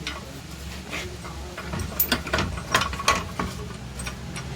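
Metal hand tools clicking and clinking on a motorcycle engine being dismantled, with a run of sharp metallic clicks in the second half over a steady low hum.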